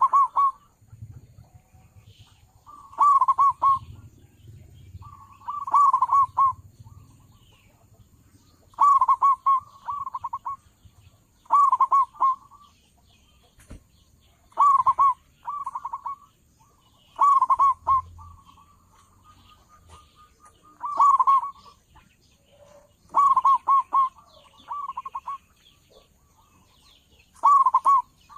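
Zebra dove (perkutut) singing: a short phrase of quick, rolling cooing notes, repeated about ten times, every two and a half to three seconds.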